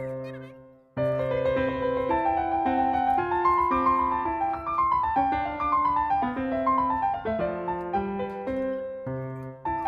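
Solo piano background music, a gentle melody of single notes over low chords. It fades out and starts over about a second in.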